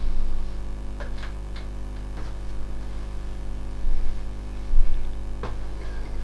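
Steady electrical hum with a few scattered clicks and knocks.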